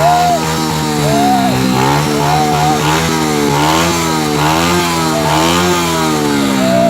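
Honda C70 motorcycle's small single-cylinder four-stroke engine, tuned, being revved repeatedly: the pitch climbs and drops back again and again, about once a second.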